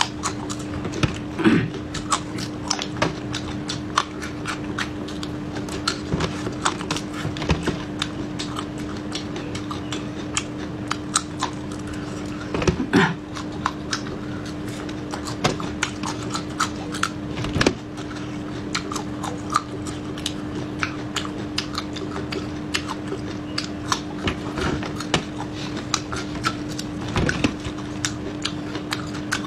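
Crisp crunching bites and chewing of raw red chili peppers, many short sharp crunches with a few louder bites, over a steady low hum.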